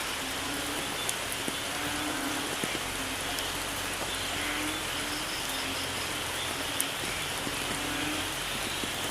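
Steady heavy rain falling, with a few sharp drop clicks. Underneath, a faint low note repeats about once a second.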